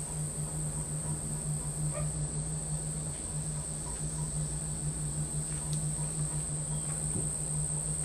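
Insects trilling steadily at a high pitch, over a low steady hum.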